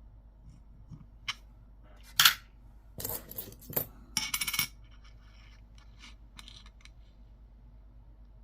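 Coins clinking and clattering as they are handled and set down: a series of sharp metallic clicks, the loudest clink about two seconds in, then a quick rattle of several clicks about four seconds in, and a few lighter clicks after.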